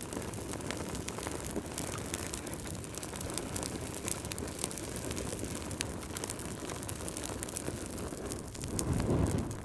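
Wood fire crackling in a fireplace: a steady low rush of flame dotted with many small sharp pops and snaps. A louder low surge of flame sounds about nine seconds in.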